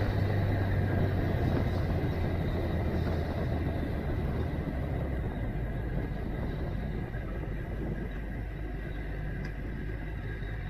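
Suzuki GSX-R1000 inline-four motorcycle running at a steady cruise, with its engine hum under wind and road noise, slowly getting quieter.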